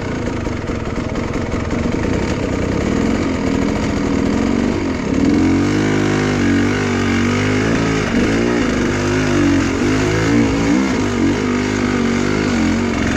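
Enduro motorcycle engine running, its pitch rising and falling over and over from about five seconds in as the throttle is opened and closed.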